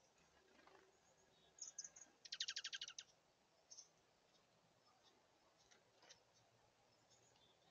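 Small songbirds chirping: a few short high chirps, then a fast rattling trill of about a dozen notes a little over two seconds in, followed by scattered faint chirps.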